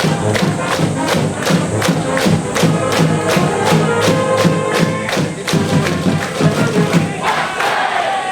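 School cheering-section brass band and drums playing a cheer tune with a steady, quick drum beat; the beat breaks off briefly near the end.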